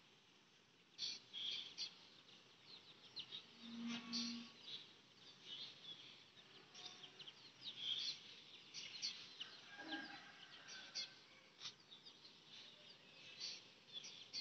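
Birds chirping faintly, with many short, high chirps scattered and overlapping throughout.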